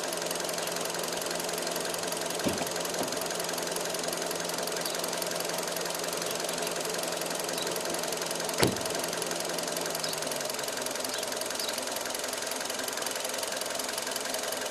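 A 2013 Hyundai i20's engine running steadily with no revving. Short sharp knocks come about two and a half and three seconds in, and a louder one about eight and a half seconds in.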